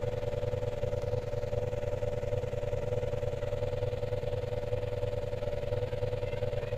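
Exhaust of a Daihatsu Gran Max pickup with the engine idling steadily: a fast-pulsing low rumble under a constant drone.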